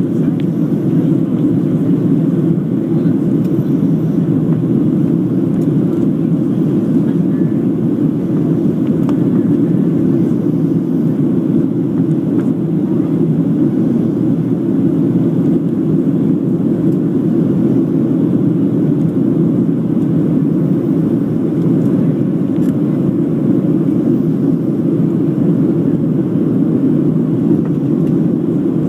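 Steady low noise of a Boeing 737-700's CFM56-7B jet engines and the airflow, heard inside the passenger cabin, holding even with no change in pitch or level.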